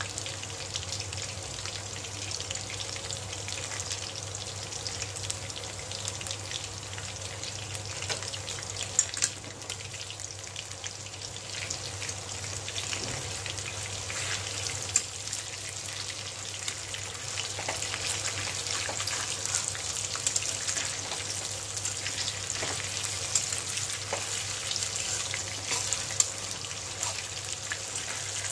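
Chicken pakoras deep-frying in oil in a steel kadai: a dense, steady sizzle full of small crackles, with a few sharper pops and clicks.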